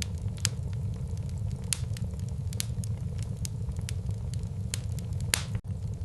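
Wood fire crackling in a fireplace: frequent sharp pops and snaps over a steady low rumble, with the loudest pop about five seconds in and a momentary dropout just after it.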